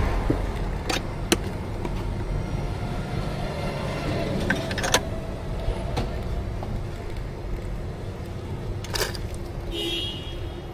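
Steady low rumble with a few sharp clicks and knocks scattered through it, and a short pitched sound near the end.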